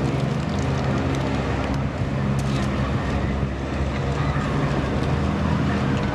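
A steady low mechanical hum, like an engine or motor running, under a wash of outdoor noise.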